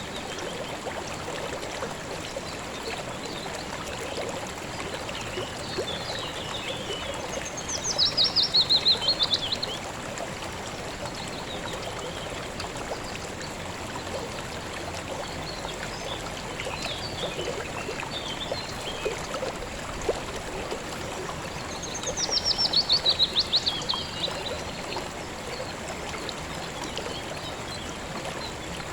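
Steady rush of a flowing river or stream. A songbird twice sings a fast trill that falls in pitch, about eight seconds in and again near twenty-two seconds, louder than the water, with softer chirps between.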